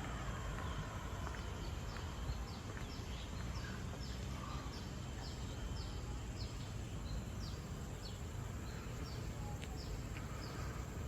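A bird calling a steady series of short, high, falling notes, about two a second, over a steady low background rumble.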